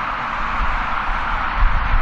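Steady jet engine roar from an Airbus A319 airliner, with wind buffeting the microphone in low gusts.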